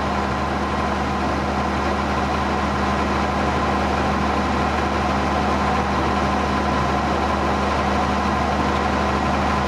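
Ford TW tractor's six-cylinder diesel engine running at a steady, unchanging speed.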